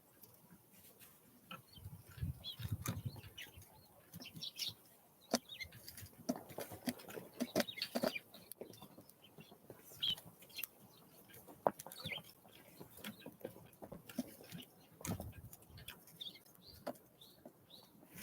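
Small birds at a feeder: many quick pecking and tapping clicks, scattered short high chirps, and now and then a flutter of wings.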